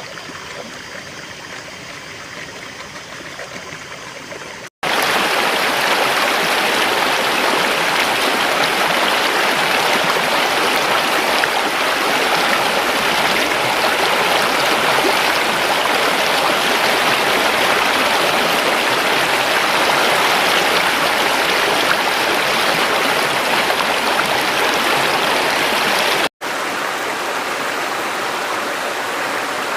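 River water flowing and rushing steadily, in three separate recordings joined by abrupt cuts: a softer flow, then a much louder, fuller rush starting about five seconds in, then a somewhat quieter flow near the end.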